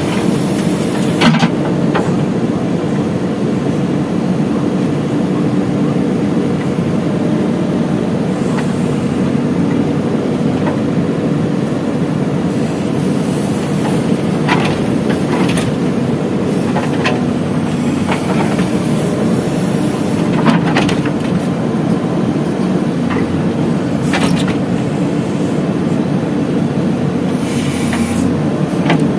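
Diesel engine of a JCB 3DX backhoe loader running steadily as it loads soil, with occasional knocks and clanks.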